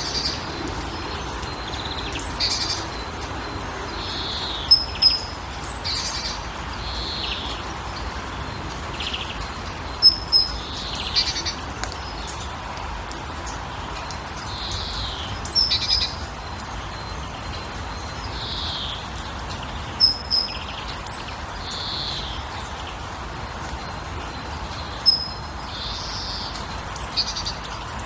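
Birds calling over a steady background rush. A sharp high call repeats about every five seconds and is the loudest sound, with softer chirps in between.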